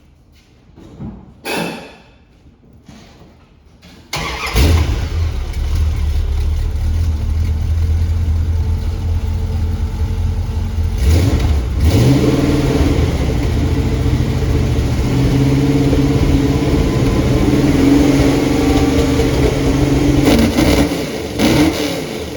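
Carbureted Dodge 5.9 Magnum V8 with headers, Dynomax Turbo mufflers and glass packs started just after a couple of short knocks, then running with a steady low exhaust note and blipped up twice, with a rising pitch each time. The exhaust is set up to run quietly.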